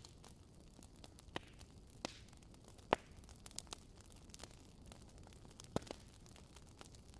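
Wood fire crackling in a fireplace: a faint steady hiss with irregular sharp pops, the loudest about three seconds in.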